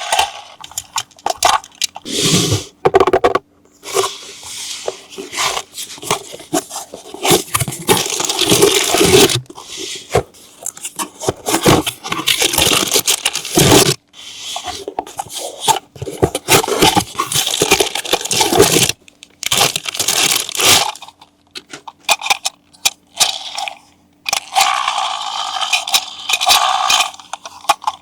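Toy packaging being handled and opened: plastic and cardboard crinkling, scraping and tearing in irregular bursts with short pauses and clicks between them.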